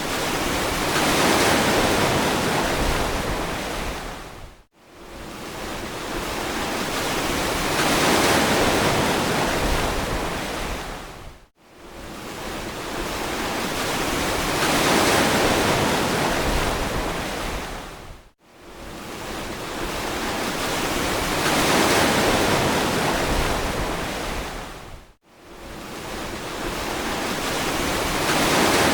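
Ocean surf on a beach: waves breaking and washing in, the noise swelling and fading again about every seven seconds. The sound drops out abruptly for a moment between the swells, four times.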